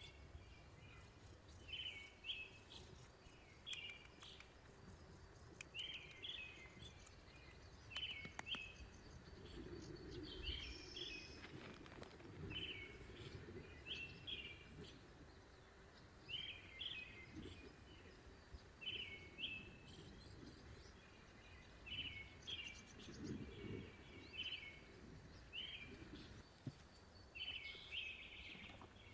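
A small bird singing a short, chirpy phrase over and over, about every one and a half to two seconds, over a faint low rumble of outdoor background noise.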